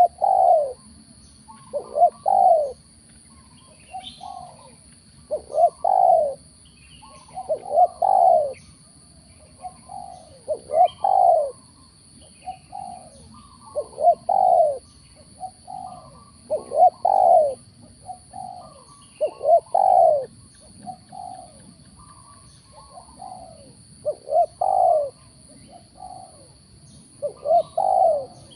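Spotted doves cooing, short repeated coo phrases every couple of seconds, the call used to lure wild doves to a trap.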